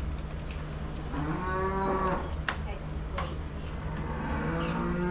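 Dairy cow mooing twice, two long calls, the first about a second in and the second starting near the end, over a steady low hum. A sharp click falls between the calls.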